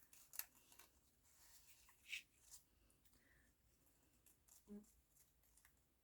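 Near silence with faint rustles and light taps of cut paper pieces being handled and shifted.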